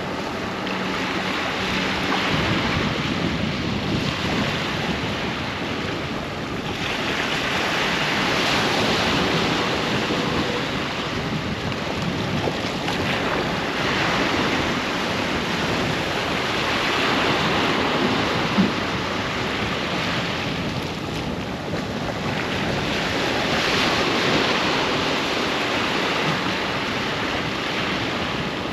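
Ocean surf breaking and washing onto a beach: a continuous rush of water that swells louder every several seconds as each wave comes in, then eases off.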